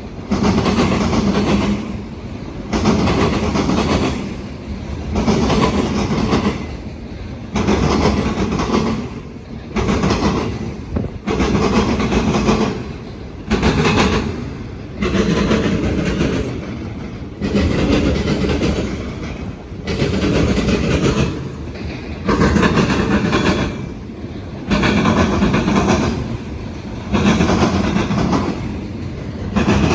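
Freight train cars rolling across railroad diamond crossings. The wheels pound the crossing frogs in a repeating clatter, about once every two seconds, over a steady rumble.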